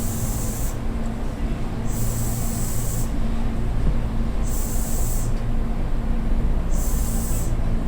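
Tobu Railway electric commuter train running: a steady rumble with a low, even hum.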